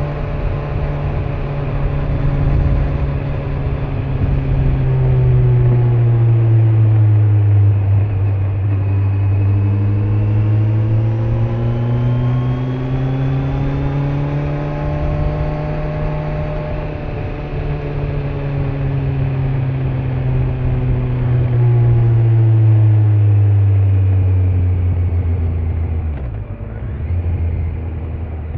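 Kawasaki Z900 inline-four engine on its stock exhaust, ridden at low speed, with wind and road noise. The engine note falls, rises slowly to a peak about halfway, then eases off. About 26 s in it drops sharply and settles to a steady lower note.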